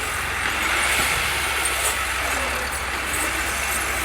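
Massey Ferguson 375 tractor's diesel engine running steadily while pulling a trolley.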